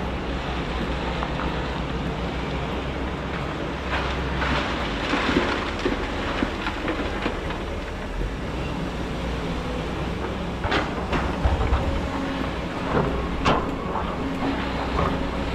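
Kobelco excavator's diesel engine running steadily under load while digging sand, with a rush of scraping noise about four to six seconds in and a few sharp metallic clanks later on.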